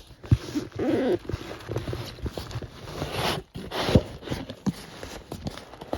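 Small cardboard boxes being handled, with rustling and scraping of cardboard and sharp knocks, two of them loudest, near the start and about four seconds in.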